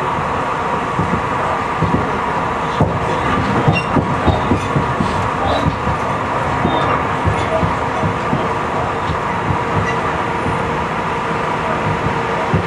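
Tobu 50090-series electric train running at speed: a steady rumble and hum, with frequent irregular clacks as the wheels pass over rail joints.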